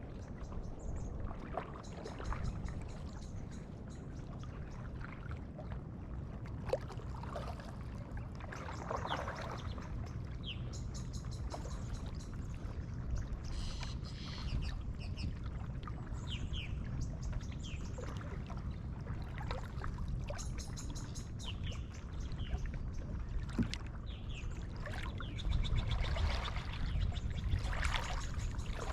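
Kayak paddle strokes splashing and dripping in calm lagoon water, with small birds chirping and trilling throughout. The splashing grows louder near the end.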